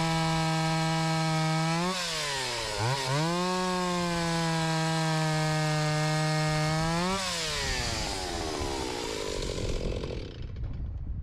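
Stihl 028 Wood Boss two-stroke chainsaw, its broken muffler welded back together, running at full throttle through a cut. The revs dip briefly and pick back up a few seconds in, then the throttle is released about seven seconds in and the engine winds down.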